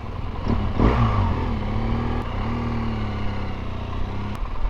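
Vehicle engine running as it drives off, revving up briefly about a second in and then holding a steady pitch.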